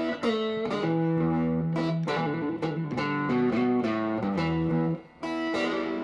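Guitar playing a blues intro: plucked single notes and short runs over low bass notes, with a brief pause about five seconds in.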